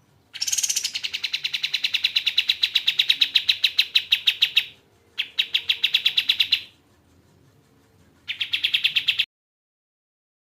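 A kapas tembak songbird singing fast, evenly repeated notes in three bursts: a long trill of about four seconds, a shorter one of about a second and a half, and a last one of about a second.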